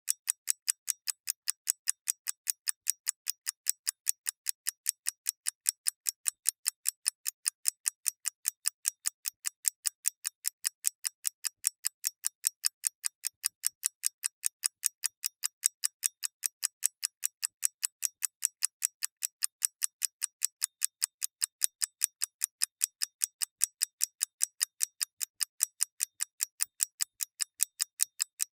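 Mechanical clock ticking steadily, crisp even ticks at about four a second.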